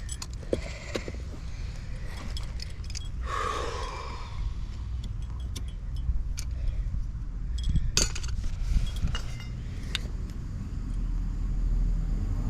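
Small metal clinks and knocks of plumbing tools and pipe parts being handled, with two sharper knocks in the second half, over a steady low rumble that grows near the end.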